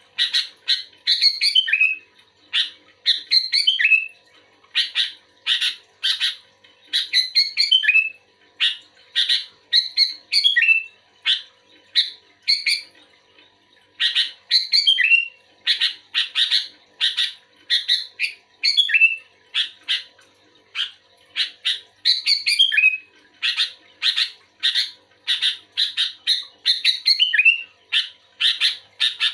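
Sooty-headed bulbul (kutilang) singing actively: short, bright chirping phrases repeated one after another, about one or two a second, with a brief pause about halfway through.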